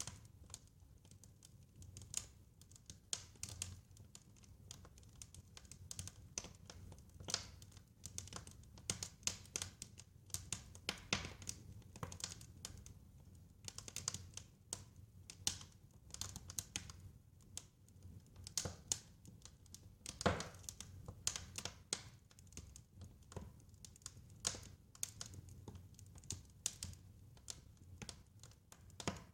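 Wood fire crackling in a fireplace: irregular sharp snaps and pops over a low, steady rumble, with one louder pop about twenty seconds in.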